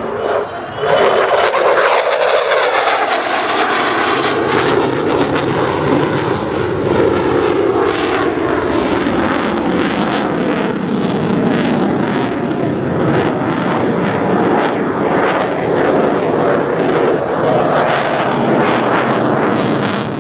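F-16C fighter jet's engine roaring overhead during a display pass, starting abruptly about a second in and holding loud, with a ragged crackle and a slowly sweeping tone as the jet moves past.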